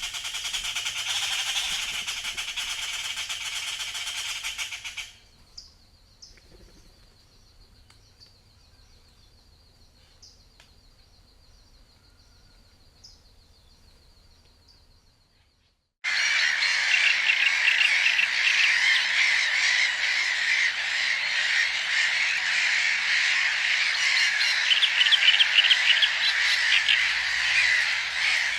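Three spliced nature recordings of calling animals: a dense chorus of high calls that stops abruptly about five seconds in, then a faint, steady high trill with small ticks, then after a short gap a loud, dense chorus of calls that runs on.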